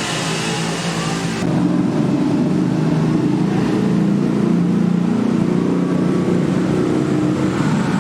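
An engine running steadily; about one and a half seconds in the high hiss cuts off abruptly and the engine note becomes louder.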